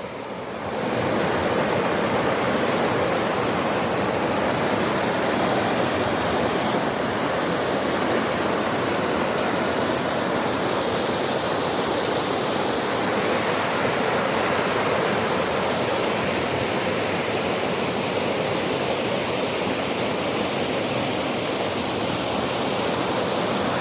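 Steady rush of flowing water, rising in over the first second and then holding even.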